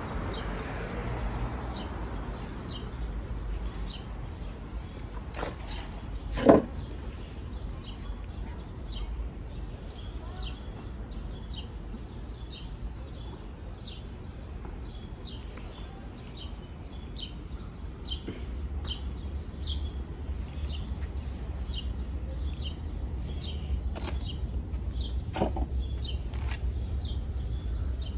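Small birds chirping in short, high, repeated notes over a steady low rumble, with one sharp click about six and a half seconds in.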